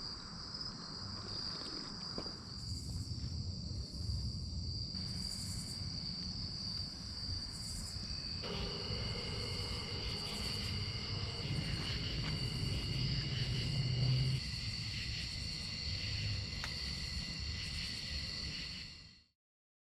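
Crickets and other insects chirring steadily in a chorus, with a faster pulsing chirp higher up and a low rumble underneath. It all cuts off abruptly near the end.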